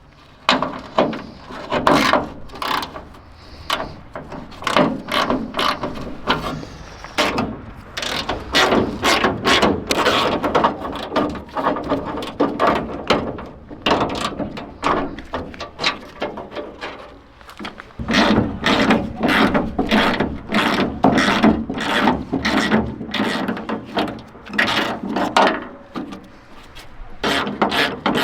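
Hand ratchet wrench clicking in quick runs of strokes, with short pauses between runs, as fasteners are undone on a truck being stripped down.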